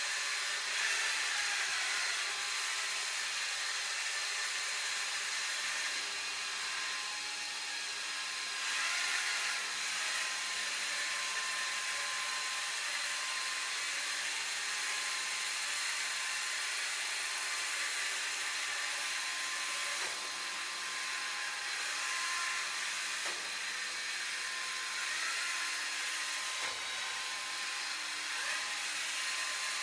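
Sharp Cocorobo robot vacuum cleaner running steadily: a constant motor whine over a strong hiss of suction, with a few faint knocks now and then.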